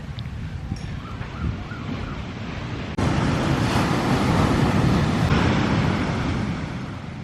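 Wind buffeting the microphone over the rush of sea surf. It cuts abruptly about three seconds in to a louder stretch, which eases off again near the end.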